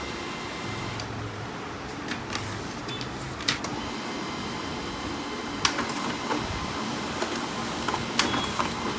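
Canon MF4820d laser printer running a print job: a steady mechanical hum with several sharp clicks from the paper-feed mechanism.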